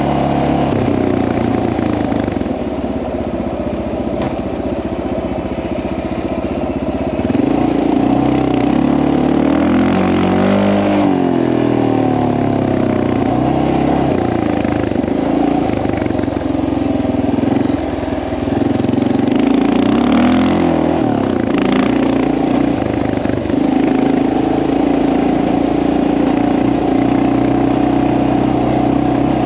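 Honda XR650L's single-cylinder engine running steadily. Its revs rise and fall with the throttle twice, about a third and two-thirds of the way through.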